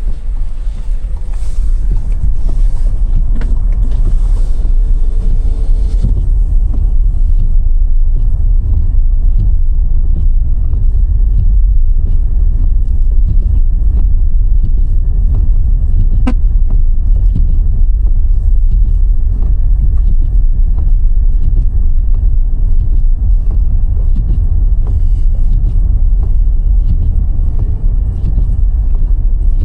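Steady low road and engine rumble of a car driving, heard from inside the cabin, with a single sharp click about sixteen seconds in.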